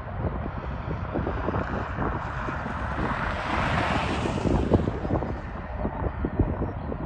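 Strong wind buffeting the microphone in irregular gusts, with a broad rushing hiss that swells and fades about three to four seconds in.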